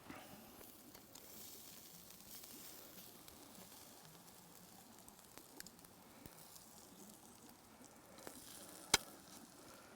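Steak sizzling faintly over campfire coals, with one sharp click about nine seconds in.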